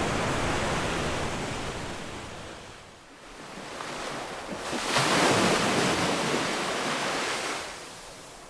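Ocean waves washing on a beach. One wash fades away about three seconds in, then the next wave surges in, loudest around the middle, and draws back toward the end.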